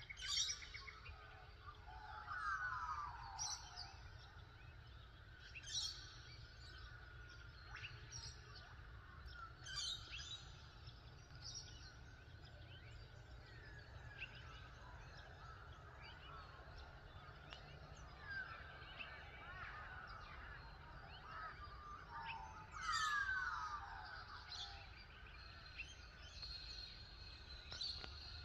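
Several birds calling and chirping, with two louder calls that fall steeply in pitch, one a couple of seconds in and one near the end, over a steady low rumble.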